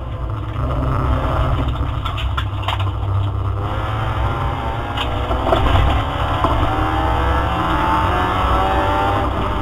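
Opel Astra GSi rally car's engine heard from inside the cabin, under load on a stage, its revs climbing through the second half. A few sharp knocks cut in during the first half.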